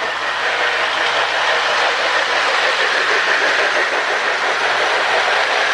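Marx 1666 O gauge toy steam locomotives running on the layout track: a steady whirring rattle of the motors and wheels on the metal rails.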